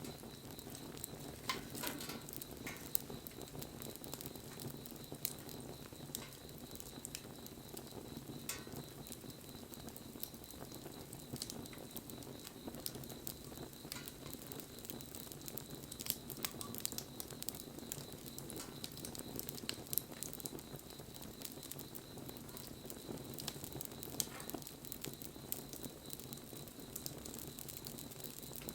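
A wood bonfire burning with a steady hiss and scattered crackles, and an occasional sharper pop.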